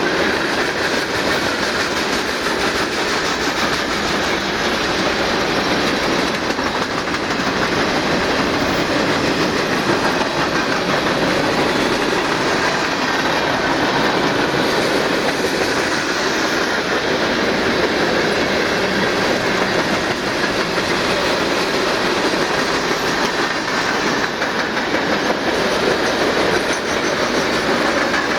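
Freight cars of a long manifest train rolling past, a steady clatter of steel wheels on the rails that holds without a break.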